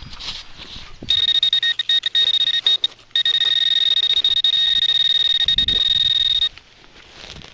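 Metal-detecting pinpointer sounding its high electronic alert tone over a buried metal target. It stutters on and off for about two seconds, then holds a continuous tone for about three seconds, as it does when the probe is right on the target, and cuts off.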